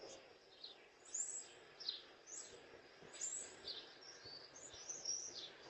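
Birds chirping faintly: a run of short, high calls, each sliding downward in pitch, repeated every half second or so, over faint outdoor background noise.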